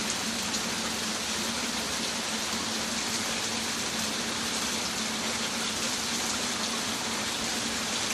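Steady rain falling on plants and the ground, an even rushing hiss with a faint low hum underneath.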